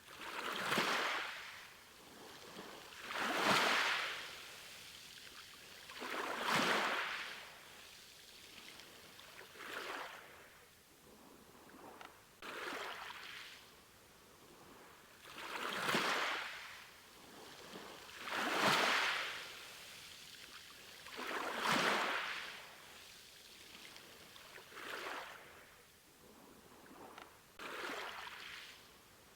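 Sea waves breaking and washing onto a shore, one swell of surf about every three seconds, each rising to a hiss and falling away.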